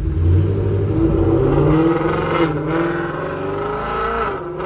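Ford Mustang GT's 5.0 V8, breathing through long-tube headers and a Corsa Xtreme exhaust, accelerating hard. The engine note climbs, dips briefly about two and a half seconds in, climbs again and drops off near the end.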